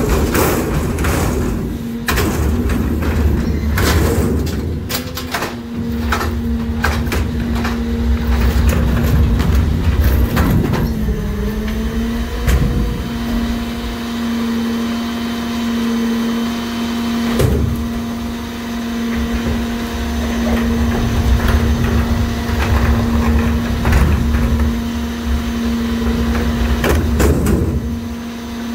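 NewWay rear loader garbage truck working its packer: the engine and hydraulics run with a steady high hum that dips briefly about eleven seconds in, over a low rumble. Many sharp knocks and bangs of trash and metal come in the first ten seconds, with a few more later.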